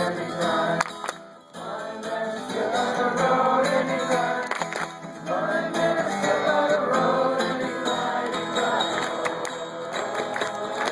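A group singing a song together to a strummed acoustic guitar, with a brief lull about a second and a half in.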